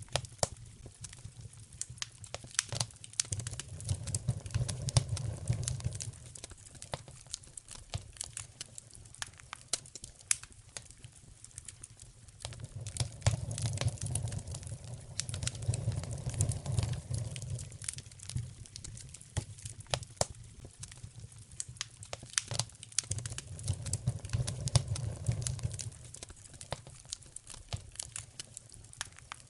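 Wood fire crackling in a fireplace: a steady scatter of sharp snaps and pops, with a low rumble that swells and fades three times.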